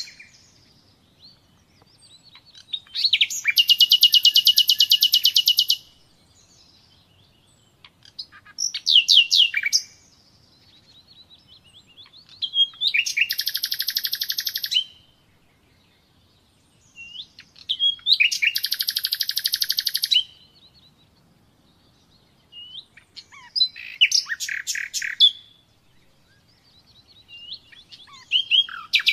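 Nightingale singing: about six separate phrases, each a burst of rapid repeated notes and whistles a few seconds long, set apart by short pauses.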